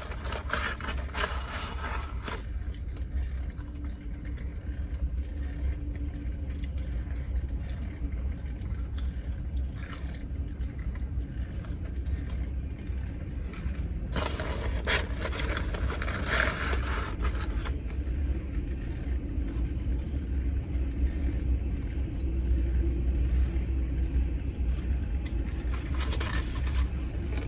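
A train on nearby railroad tracks, heard as a steady low rumble. Brief bursts of scraping and rustling come three times: at the start, around the middle and near the end.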